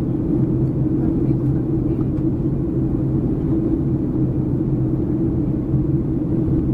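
Steady cabin drone of a Boeing 737-300 in flight: engine and airflow noise with a constant low hum, unchanging throughout.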